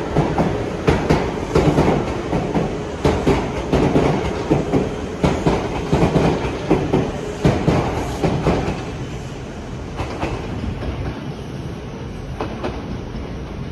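Kintetsu electric train moving on the station tracks, its wheels clattering in quick, uneven knocks over the rail joints, the clatter easing into a quieter rumble after about ten seconds.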